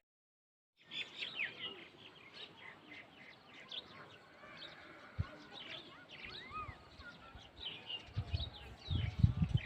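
Small birds chirping, starting about a second in: many quick high chirps with a couple of longer arching notes about two-thirds of the way through. A low rumble comes in near the end.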